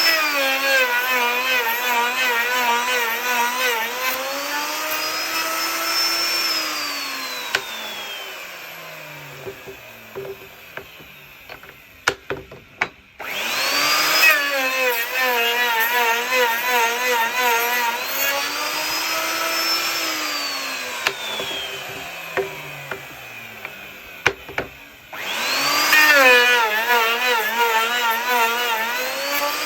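Electric wood router cutting a tenon: three runs, each starting with a whine up to speed, the pitch sagging and wavering while the bit cuts into the wood, rising again when it runs free, then winding down slowly after switch-off. A few sharp knocks between runs.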